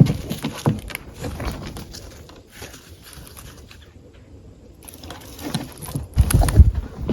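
Footsteps crunching through dry fallen leaves and sticks on a forest trail. The steps ease off and go quieter through the middle, then come back louder near the end.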